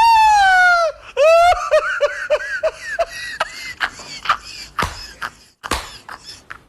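A high-pitched voice gives one long cry that falls in pitch, then breaks into a run of short laughing notes, about three a second. Scattered clicks and knocks follow, getting fainter.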